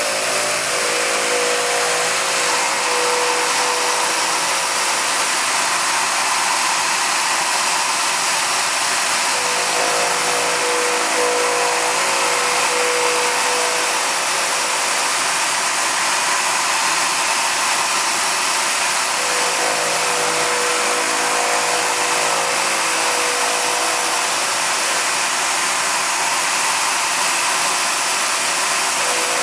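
Power tool motor running steadily as a cutter trims a freshly fitted aluminum-bronze spark plug thread insert and cleans up the old plug seat. A humming tone comes and goes about every ten seconds.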